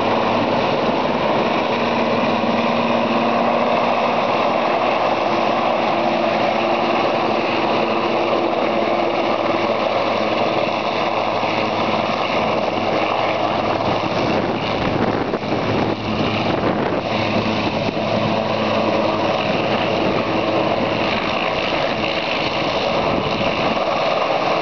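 Helicopter running with its engine and rotor noise steady and loud throughout, with a brief unsteady patch a little past the middle.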